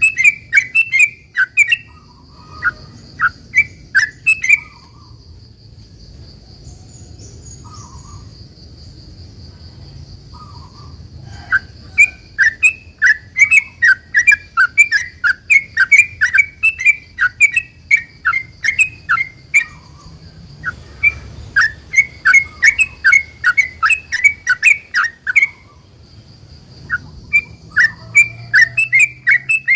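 Yellow-vented bulbul (trucukan) singing long, rapid runs of sharp chattering notes in bouts several seconds long, separated by short pauses. A faint steady high whine runs underneath and stops near the end.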